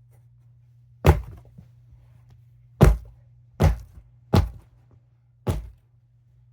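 Five hard whacks, coming irregularly about a second apart, the second the loudest.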